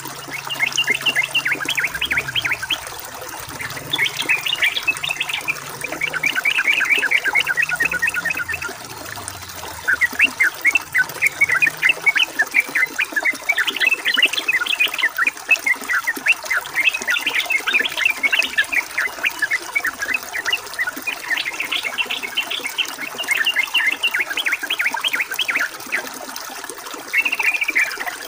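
Yellow-vented bulbul (trucukan) chattering in repeated bursts of quick, high notes over a steady trickle of running water.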